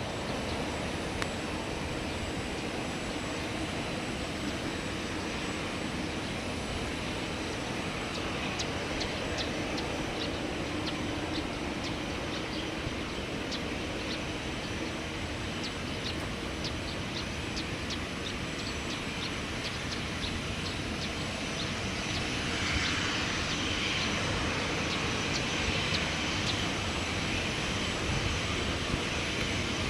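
Airliner engines running with a steady rushing noise that grows louder and brighter about two-thirds of the way through, with a string of faint high ticks in the middle.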